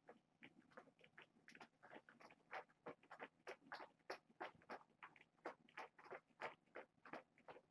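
A kitten feeding close to the microphone: a fast, fairly even run of soft wet clicks, about four a second.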